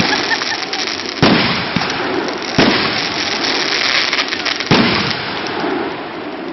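Fireworks going off: three loud bangs a second or two apart over continuous crackling and fizzing, which dies down near the end.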